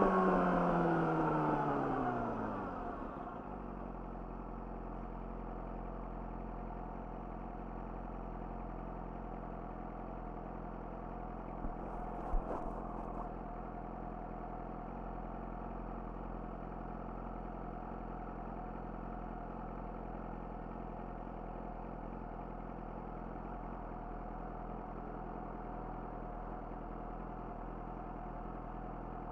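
Yamaha YZF-R6's inline-four with an Akrapovic slip-on exhaust, revs falling as the bike slows, then idling steadily. A few brief clicks about twelve seconds in.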